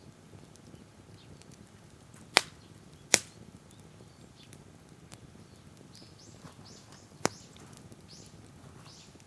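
Wood fire crackling, with three sharp pops, two close together a little over two seconds in and a third near the end. From about two-thirds of the way through, a bird gives a series of short, high chirps.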